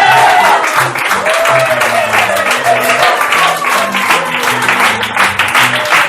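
Audience applauding and cheering while a live band keeps playing, a low bass line stepping from note to note under the clapping.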